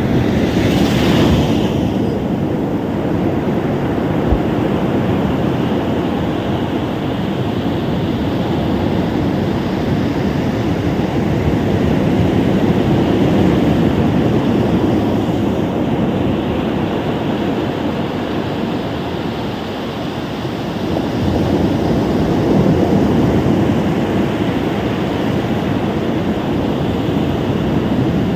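Ocean surf washing steadily on a beach, a low continuous wash that eases around twenty seconds in and swells again, with a brief hiss about a second in.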